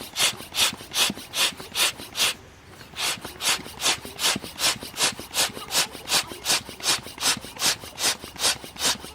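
Hand saw cutting through wood in steady back-and-forth strokes, about two and a half a second. It pauses briefly about two seconds in, then carries on.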